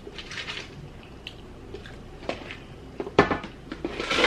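Ice clicking and knocking in a cup as it is handled, with a short hiss near the start and a louder knock about three seconds in.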